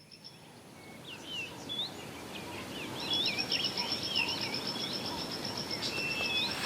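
Birds chirping and calling in short rising and falling notes, joined about three seconds in by a fast, steady high trill, over a low background hiss that grows louder.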